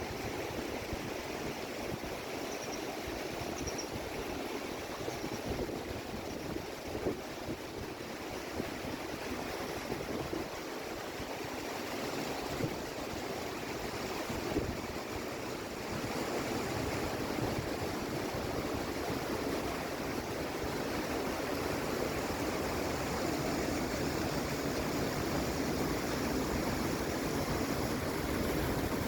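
Steady rushing of a flowing river, growing slightly louder about halfway through.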